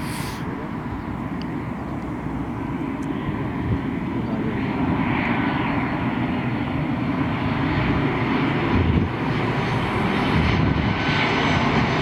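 Boeing 737 jet engines on a landing approach: a steady rushing jet noise that grows gradually louder as the airliner comes closer.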